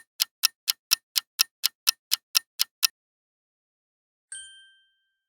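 Countdown timer sound effect: a clock ticking about four times a second, stopping about three seconds in. About a second later comes a single short ding that fades quickly.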